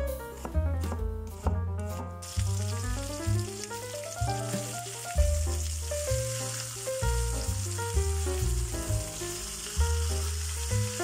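A knife slicing onion on a wooden cutting board with a few sharp taps, then, about two seconds in, flour-dredged chicken breasts frying in oil in a non-stick pan with a steady sizzle. Background music with piano-like notes and a bass line plays throughout.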